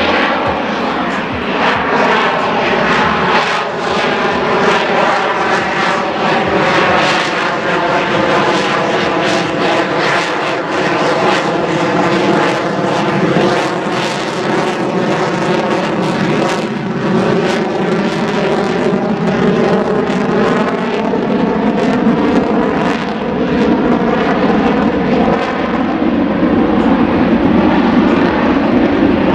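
F-22 Raptor's twin Pratt & Whitney F119 turbofans, a loud continuous jet roar as the fighter flies its display, with a slowly shifting, phasing quality as it moves across the sky.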